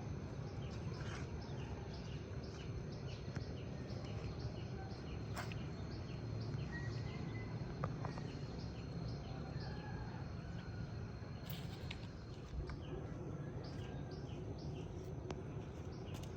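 Outdoor ambience: a high chirp repeating evenly a couple of times a second over a steady low rumble, with a few faint clicks.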